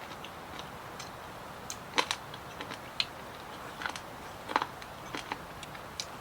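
Eating sounds: scattered light clicks and taps of utensils and chewing, the sharpest about two seconds in and again halfway through, over a steady background hiss.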